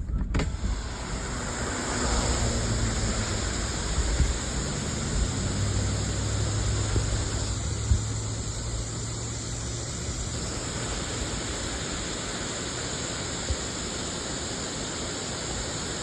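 Waterfall: a steady, even rush of falling water, with a low hum underneath for roughly the first ten seconds.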